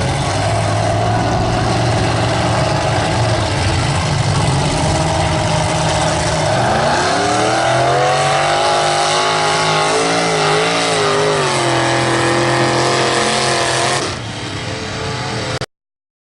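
Mega mud truck's big-block V8 engine running hard under load. Its pitch climbs about six seconds in, then rises and falls several times as the throttle is worked, and the sound drops and cuts off abruptly near the end.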